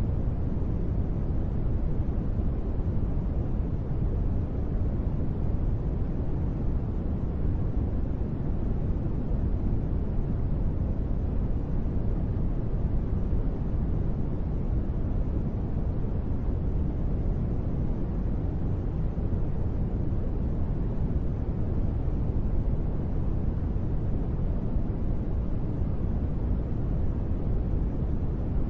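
Steady, deep rushing noise weighted to the low end, with no separate drops or pattering standing out: the muffled rain-style white noise of a sleep sound track. It stays even throughout.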